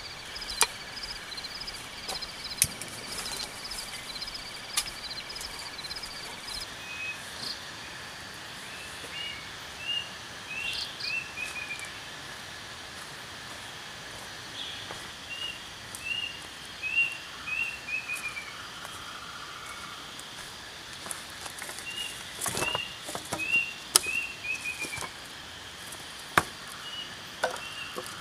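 Tropical forest ambience at dusk: a steady insect drone, a rapid run of high chirps in the first few seconds, then a bird singing groups of four or five short downward-sliding notes several times over. Scattered sharp wooden knocks from sticks being handled, the loudest in the last few seconds.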